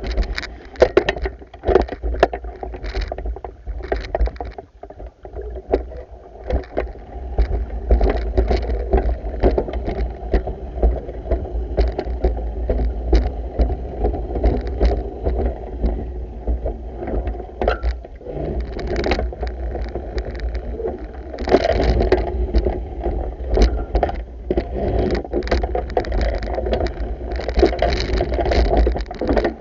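Pool water sloshing and lapping while a pool vacuum is worked through it, with many irregular small knocks over a steady low rumble.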